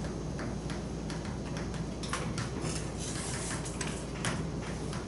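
Chalk writing on a blackboard: irregular quick taps and short scratches as terms are written out, over a steady low room hum.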